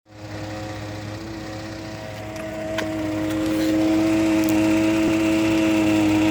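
2013 Ford F-150's 3.5-litre EcoBoost V6 idling in park with a steady droning hum that grows louder about three seconds in. This is the vibration noise in park that the owner is trying to show, one the dealer could not reproduce.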